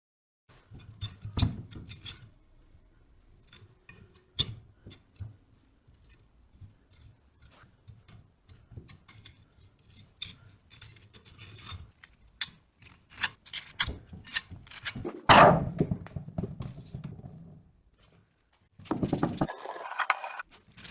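Workshop handling of antique chaff cutter parts: scattered taps, clicks and scrapes, growing busier and peaking in a loud clatter about fifteen seconds in. A burst of hiss follows near the end.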